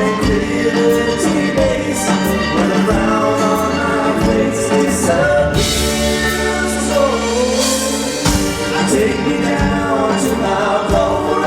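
Live band playing a ballad, with a lead singer and backing vocal harmonies over acoustic instruments including mandolin. A bright wash swells in the high end about halfway through, over a held low bass note.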